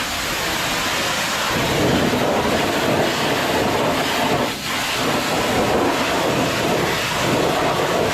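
High-pressure wash wand spraying water against a tractor-trailer truck: a loud, steady rush of spray, starting abruptly, with a brief dip about halfway through.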